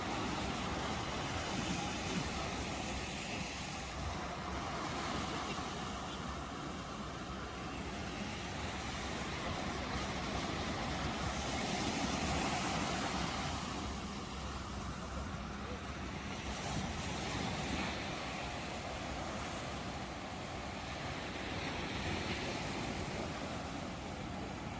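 Ocean surf: a continuous rush of breaking waves that swells and eases gently every few seconds.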